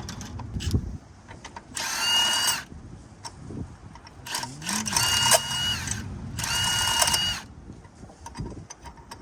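A cordless power tool spinning out a long engine bracket bolt in three bursts. Each burst is a motor whine that rises quickly and then holds steady.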